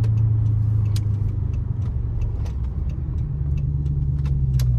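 Straight-piped 2012 Dodge Charger SRT8's 6.4-litre Hemi V8 running at a steady low drone while driving, heard from inside the car. Its pitch rises slightly a little past halfway through. Small sharp clicks are scattered over it.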